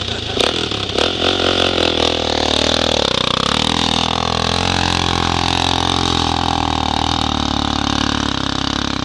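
Small off-road vehicle engine running, its pitch shifting about three seconds in and then holding fairly steady, with a few sharp knocks or clatters in the first two seconds.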